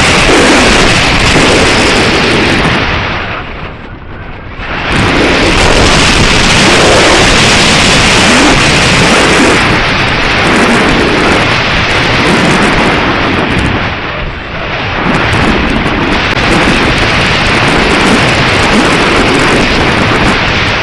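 Strong gusty wind buffeting the microphone, loud throughout, easing off briefly about four seconds in and again about fourteen seconds in.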